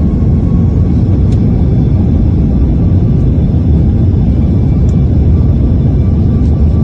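Jet airliner taking off, a loud, steady low rumble of engines at takeoff power.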